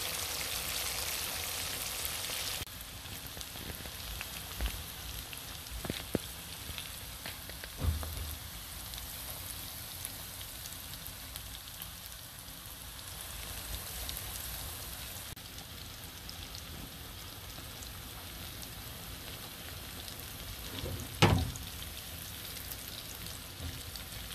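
Chicken pieces frying in hot oil, a steady sizzle that turns quieter about three seconds in. A few short knocks come through it, the loudest about 21 seconds in.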